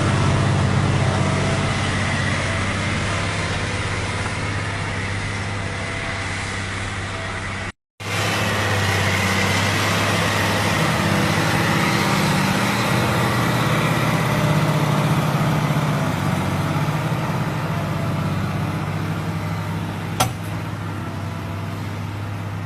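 New Holland M 160 tractor's diesel engine running steadily while pulling two ploughs. The sound breaks off for a moment about eight seconds in and picks up again, and there is a single sharp click near the end.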